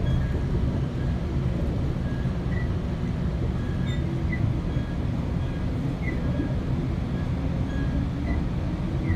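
Steady low rumble of a moving Metrolink commuter train, heard from inside the passenger coach, with faint short high squeaks now and then.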